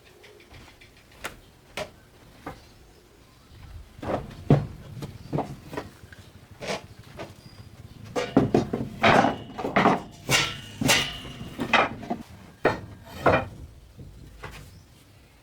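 A run of irregular knocks and clatters, a few scattered at first, then coming thick and fast for several seconds in the second half before thinning out again.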